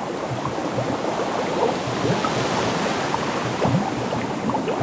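Ocean sound: sea water rushing steadily, with a dense sound of churning water.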